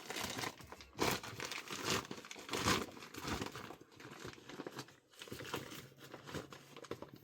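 Irregular crinkling, crackling rustles of dry material being handled, loudest about one, two and nearly three seconds in.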